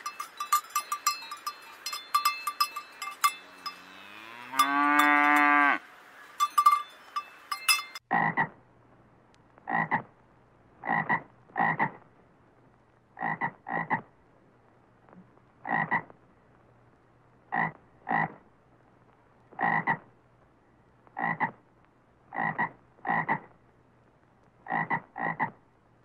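A bell on a young calf's collar clinking, and the calf mooing once, rising in pitch for about two seconds. From about eight seconds in, a frog croaks: some fifteen short croaks roughly a second apart, a few in quick pairs.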